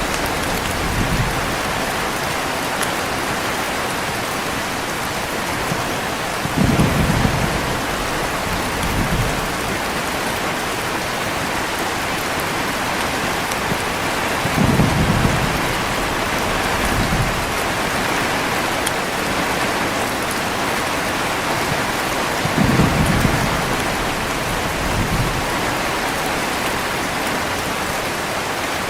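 Steady heavy rain, with low rolls of thunder coming back about every eight seconds, each followed by a smaller rumble a couple of seconds later.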